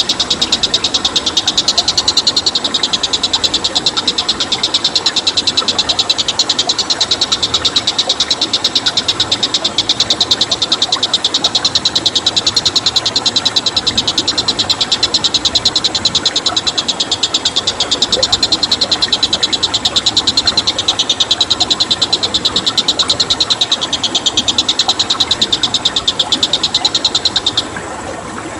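An animal's high-pitched call made of very rapid, even pulses, kept up without a break and cutting off suddenly near the end.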